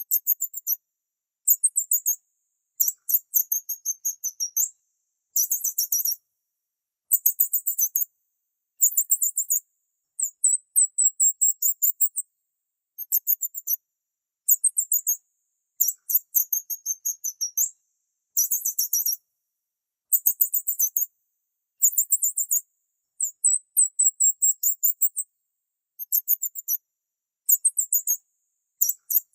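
High-pitched chirping trills in regular bursts about a second long, each made of rapid pulses, repeating every second and a half or so with silence between.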